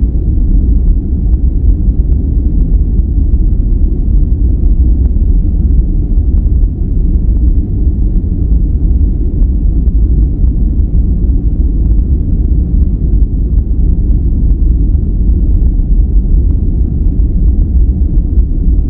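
Steady noise track for sleep and relaxation, unchanging throughout: a deep, even rumble weighted to the low end, with little hiss above it.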